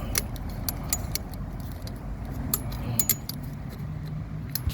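Handling noise from a phone being repositioned by hand, with scattered light clicks, taps and small metallic jingles over a low steady rumble.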